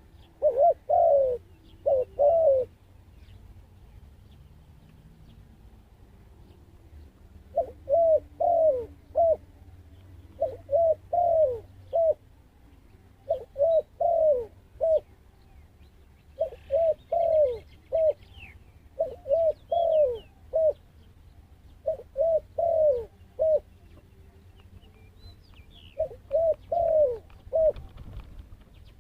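Zebra dove cooing: repeated short phrases of quick, bubbling notes, one phrase at the start, then after a pause of a few seconds a run of phrases that goes on until near the end. A few faint high chirps from other small birds lie behind.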